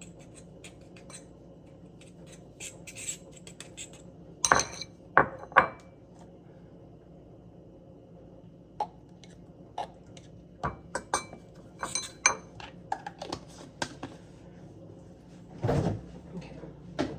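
Kitchen utensils clinking and knocking against bowls and dishes while a sauce is mixed, in separate irregular strikes: three loud knocks about four to six seconds in, then a run of lighter clinks and a longer clatter near the end.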